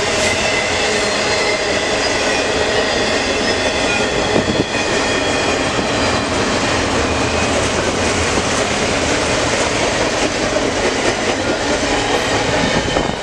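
Double-stack intermodal container cars of a CN freight train rolling past close by: a loud, steady rolling noise of steel wheels on rail.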